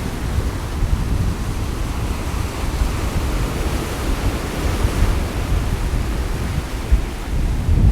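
Sea waves washing on the shore, with gusting wind buffeting the microphone in a low, rumbling flutter.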